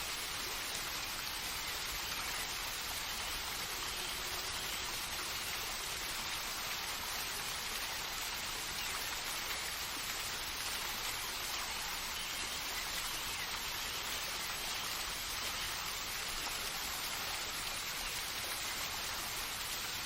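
Steady, even hiss of falling water, a nature-sound water ambience with no breaks or changes.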